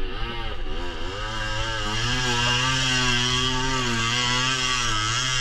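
Suzuki 80 dirt bike engine revving hard as it labors through deep mud, its pitch rising and falling for the first couple of seconds and then held steady at high revs.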